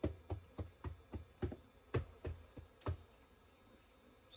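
A quick series of about ten sharp knocks on beehive equipment, roughly three a second, stopping about three seconds in.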